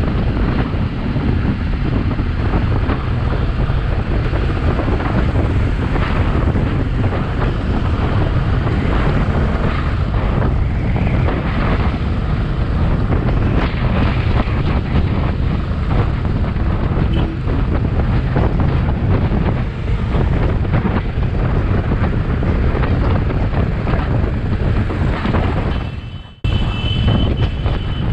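Wind buffeting the microphone on a moving motorcycle, over the steady running of a Royal Enfield Bullet 350's engine. Near the end the sound cuts out for a moment, and then a short high beeping repeats a few times.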